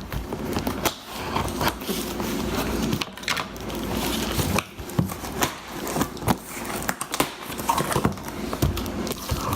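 A package being opened by hand: packaging rustling and crinkling, with many short knocks and clicks as it is handled.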